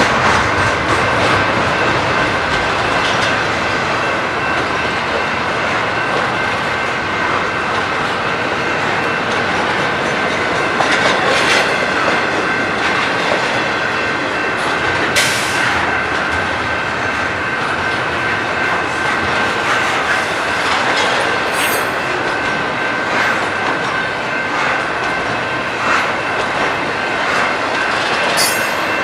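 A train rolling past, its wheels clacking over the rails, with a steady high squeal from the wheels.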